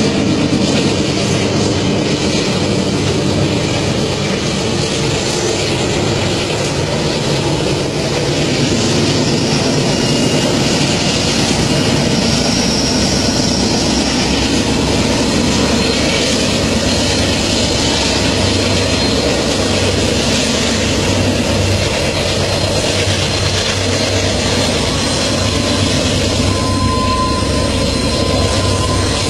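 A long train rolling past with a steady, loud rumble and rush of wheels on the rails. A thin squeal rises near the end.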